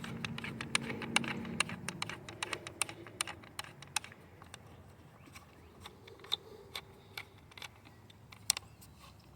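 Irregular plastic clicks and taps as the high-pressure hose fitting is worked into the spray gun of a pressure washer. The clicks come quickly for the first few seconds, then thin out to a few scattered ones.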